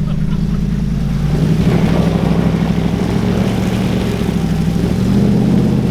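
An off-road SUV's engine pulling under load as it climbs a rock obstacle, with a rougher rushing noise joining about a second in and the engine pitch rising slightly near the end.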